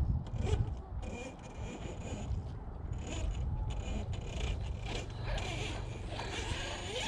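Large electric RC trucks running nearby, their motors whining in short high-pitched spells over a steady low rumble, with gritty scraping from tyres on dirt.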